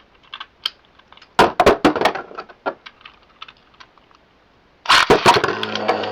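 Light plastic clicks and clacks of Beyblade X tops and launchers being handled. About five seconds in, a burst of sharp clacks as the tops are launched into the stadium, then the steady whirring hum of the spinning tops.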